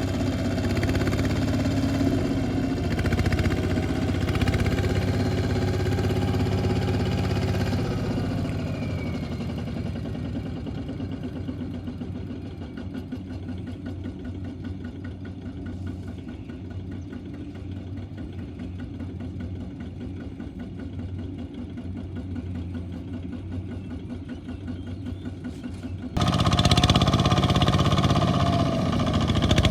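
Small farm tractor engine running steadily, loud at first and then fading as it moves away; near the end it cuts abruptly to a louder engine sound close by.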